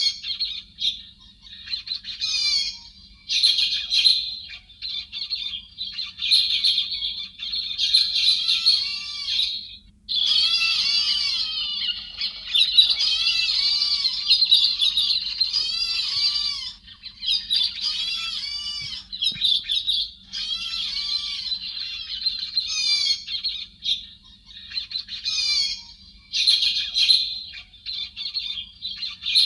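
A thrush of the kind Vietnamese trappers call héc xoan, singing and chattering in fast, rapidly changing warbled phrases with short breaks between them. This is a recorded lure call, played to draw a flock in.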